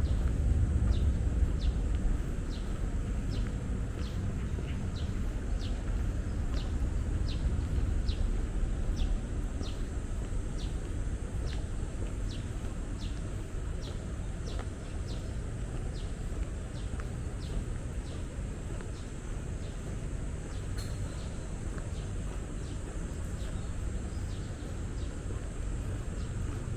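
Steady low rumble of distant city traffic, with a bird repeating a short high chirp about one and a half times a second, fading out after about sixteen seconds.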